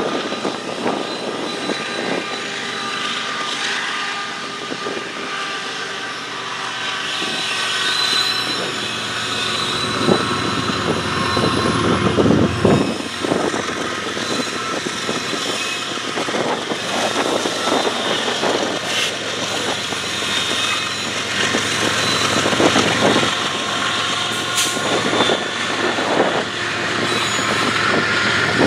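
Freight train rolling past: tank cars and covered hoppers rumbling and clattering on the rails, with several sharp knocks and a thin high squeal running through.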